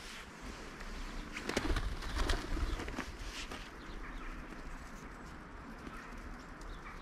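Bird calls, with scattered clicks and rustles between about one and a half and three and a half seconds in.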